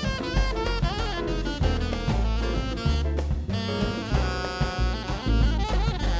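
Live Latin-jazz band playing: a saxophone carries a busy melodic line over bass and drum kit.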